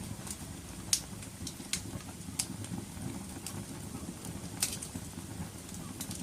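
Wood fire burning in a fireplace: a steady low rumble of flame with irregular sharp crackles and pops, the loudest about a second in and again past four and a half seconds.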